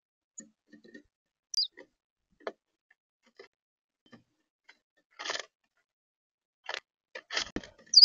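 Birds at a feeder: scattered light taps and pecks on the feeder, short rustling scrapes about five and seven seconds in, and two sharp high chirps, one about a second and a half in and a louder one at the very end.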